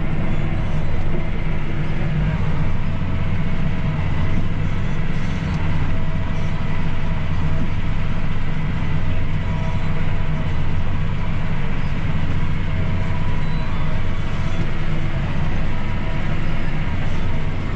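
Tractor running steadily as it works the hay field, a continuous low drone with only slight swells in level.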